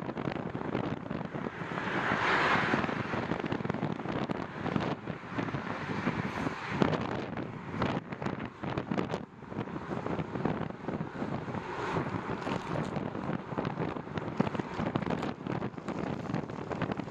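Wind buffeting the microphone of a moving bike rider: a rough, rushing noise that rises and falls, with a louder gust about two seconds in.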